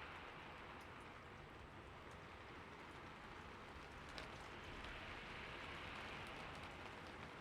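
Steady rain falling, a soft even hiss with scattered drops ticking on a surface and one slightly sharper drop hit about four seconds in; no thunder.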